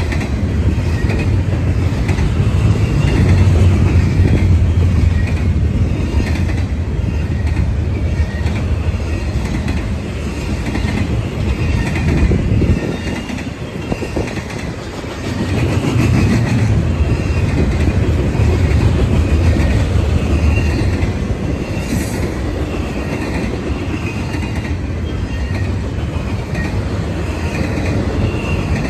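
A train's rail cars rolling past close by: a steady heavy rumble with rhythmic clacking of wheels over the rail joints, dipping briefly about halfway through before picking up again.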